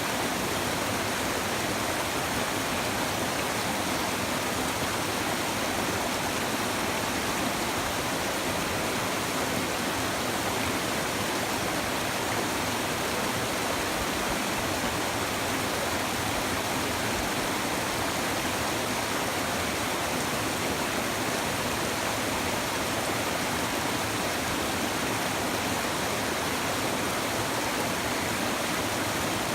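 A river's shallow water babbling over stones, a steady, even rush of flowing water without a break.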